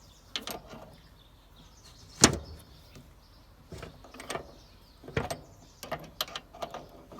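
Irregular metallic clicks and knocks of tools and parts while a starter motor's solenoid is being worked loose, with one sharp clank about two seconds in and another near five seconds.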